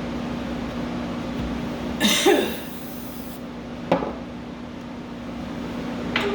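Electric pet clippers running with a steady hum during a cat shave. A brief, louder noisy sound breaks in about two seconds in, and there are short knocks near four and six seconds.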